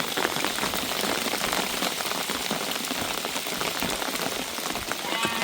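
Heavy rain falling steadily, many drops striking a surface. A sheep bleats briefly near the end.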